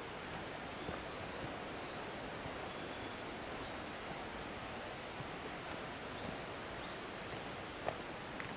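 Steady rush of flowing water, as of a mountain stream or waterfall, with a few faint high chirps and a single sharp click near the end.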